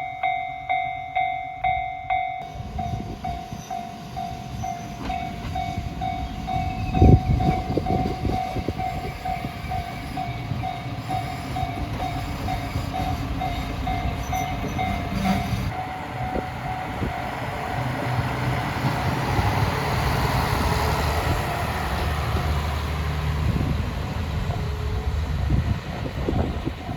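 Railway level-crossing alarm ringing as a steady repeated ding, just under two a second, fading after about fifteen seconds. Under it a train approaches and passes, with wheel rumble and a loud thud about seven seconds in.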